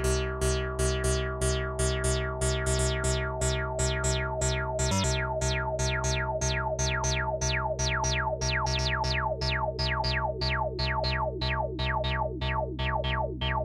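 Malekko Manther synthesizer playing a repeating sequence of short bass notes, about four a second, each note opening bright and closing quickly in a resonant filter sweep. A brief dropout comes about five seconds in.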